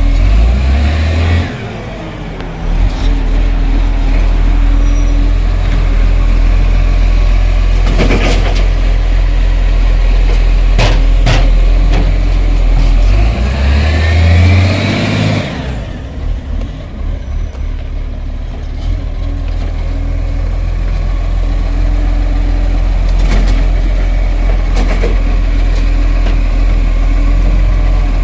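Garbage truck running close by with a steady low engine rumble. There are a few short, sharp sounds about 8 and 11 seconds in, and a rising whine with a surge about halfway through.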